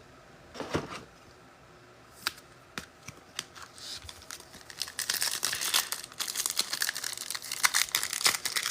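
Foil trading-card pack wrapper being crinkled and torn open. A few scattered clicks and rustles come first, then dense crackling from about five seconds in.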